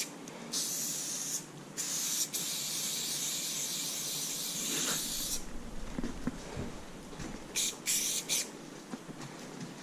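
Aerosol spray paint can spraying in hisses: a short burst, a long spray lasting about three and a half seconds, then two quick bursts near the end.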